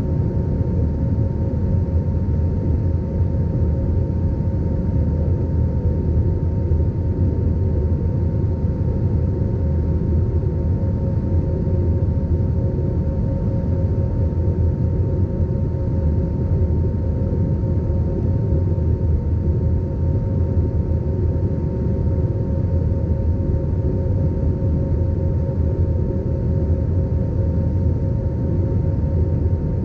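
Steady cabin noise of an Airbus A320 in flight after takeoff: an even, low roar of the jet engines and the rushing air, with two faint steady tones running through it.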